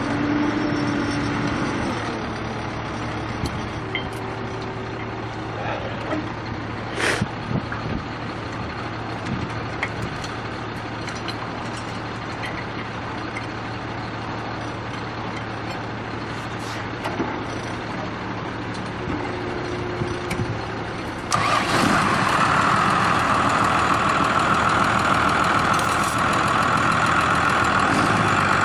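A heavy truck engine running steadily, with a single sharp click about seven seconds in. About 21 seconds in, the engine sound suddenly grows louder and higher and stays that way.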